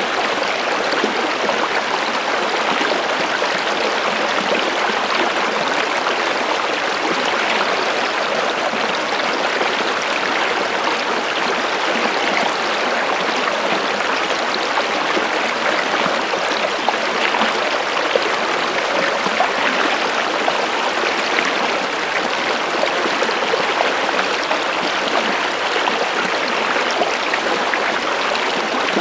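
Water flowing steadily in a stream, an even rush with a fine splashing texture and no deep rumble.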